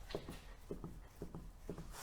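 A string of faint, short knocks at irregular intervals from a Lada Largus front lower ball joint as the suspension arm is rocked up and down by hand: the ball joint is starting to develop play, though none shows when the wheel is rocked.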